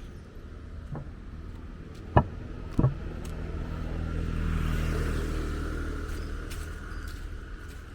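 A motor vehicle passes by, its engine hum swelling to a peak midway and then fading away. Two sharp knocks are heard just before it, about two and three seconds in.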